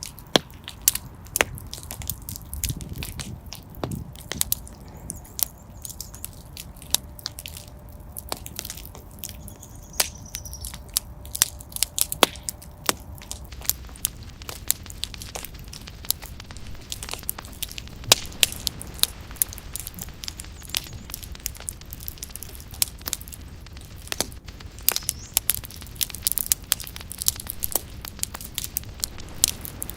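Fire burning in a fireplace, crackling with frequent irregular sharp pops and snaps over a steady low rumble of flame. A faint thin steady tone runs for a few seconds in the middle.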